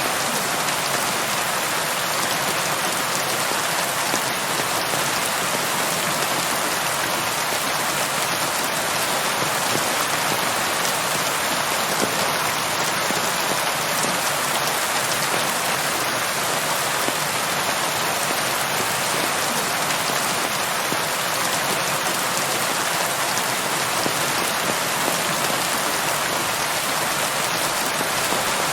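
Steady rain falling and pattering on surfaces, an even, unbroken hiss of drops.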